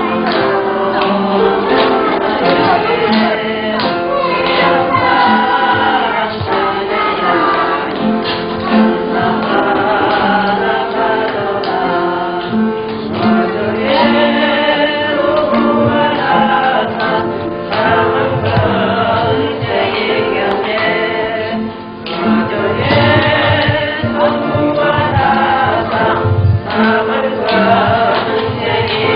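Church choir singing a Christian praise hymn.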